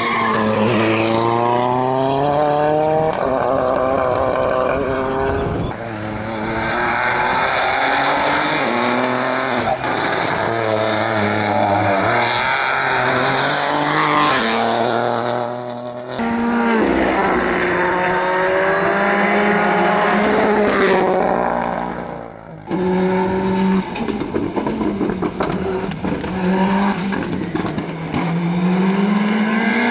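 Rally car engines at full throttle, the revs climbing and dropping back through quick gear changes, with tyre squeal. Several cars in turn, each pass cut off sharply and replaced by the next.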